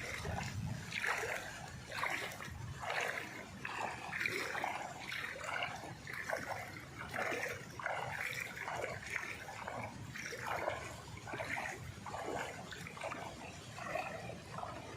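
Water splashing and sloshing in short, irregular bursts about once or twice a second.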